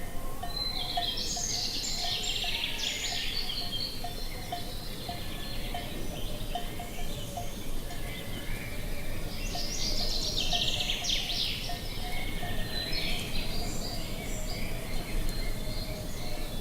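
Songbirds singing in two loud spells, about a second in and again about ten seconds in, with short, lower chirps repeating throughout over a steady low outdoor background noise.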